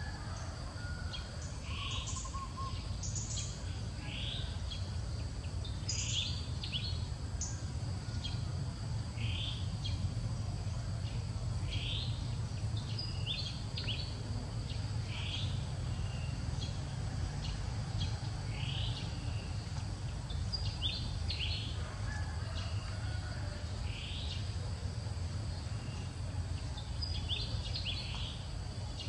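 Outdoor ambience: a bird calling over and over with short rising chirps every two to three seconds, some in quick clusters, over a steady high insect drone and a low steady rumble.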